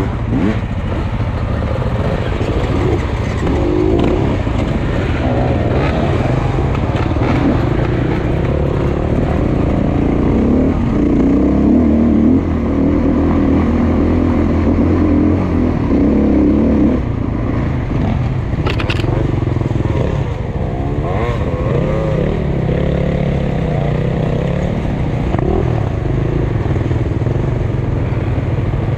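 Dirt bike engine running under load on a trail ride, its pitch rising and falling as the throttle opens and closes.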